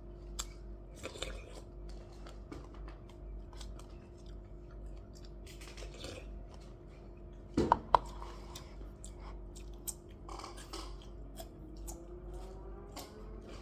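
Close-up chewing and crunching of food, with many small clicks. A brief louder sound stands out about eight seconds in.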